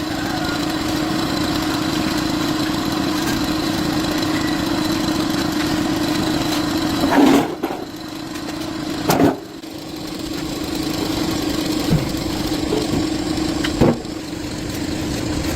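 A machine running with a steady hum, with a few sharp knocks. The level dips just after halfway and slowly builds back up.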